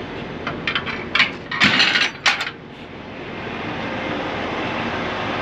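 A quick run of metallic clinks and clanks on the steel car-hauler trailer, about five or six strokes in two seconds, the longest and loudest near the middle, over a steady low hum.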